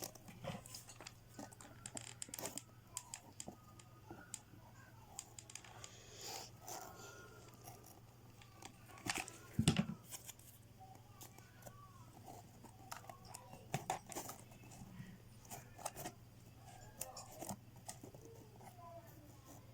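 Faint handling noises of cardboard and paper craft pieces: scattered light taps, clicks and short rustles as a cut cardboard piece is fitted and glued on, with one louder knock about halfway through.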